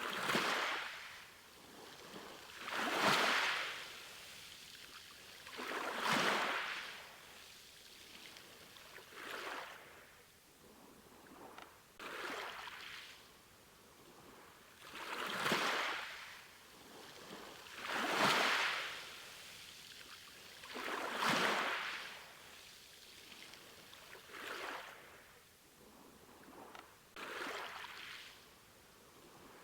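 Ocean waves, a swell of surf rising and falling about every three seconds, some swells louder than others.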